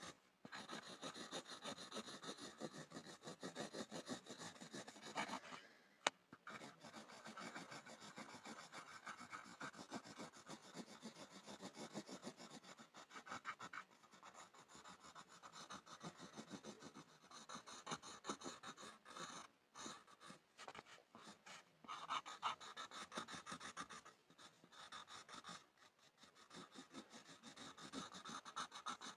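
Pencil scribbling on a board: rapid scratching strokes, with short pauses about 6, 14, 20 and 26 seconds in and a single sharp tap just after the first pause.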